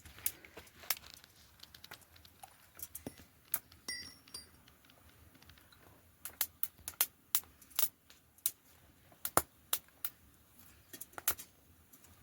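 A run of sharp, irregular clicks and taps, some close together and some spaced out, with a brief thin high tone about four seconds in.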